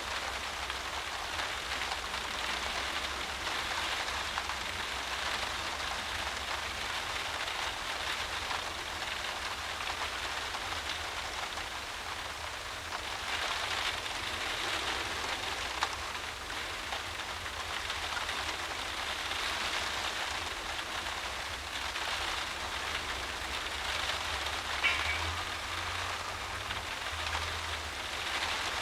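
Heavy driving rain beating against a windowpane, heard from inside the room: a dense, steady patter that swells and eases in gusts, with the occasional sharper drop tick.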